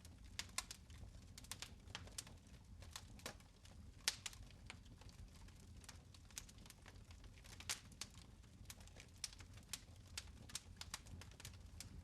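Fire crackling in a fireplace: irregular sharp pops and snaps, several a second at times, over a low steady rumble.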